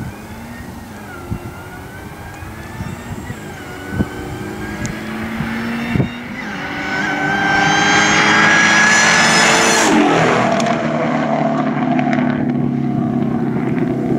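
2004 Mustang Cobra's supercharged 4.6-litre V8 with catless exhaust, at full throttle as the car approaches. Its revs climb and it grows much louder, with a supercharger whine over the exhaust, then the pitch drops sharply as it passes about ten seconds in.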